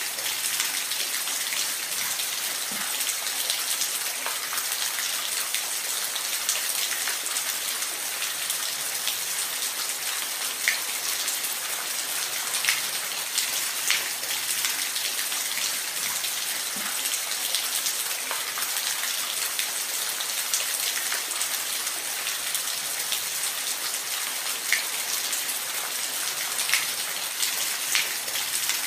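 Steady rainfall: a continuous high hiss of rain with scattered louder individual drops hitting a surface.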